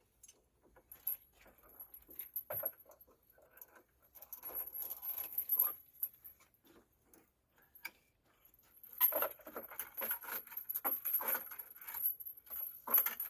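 Steel chain clinking and rattling in bursts as it is wrapped around a pallet of bluestone and pulled tight to hold the load.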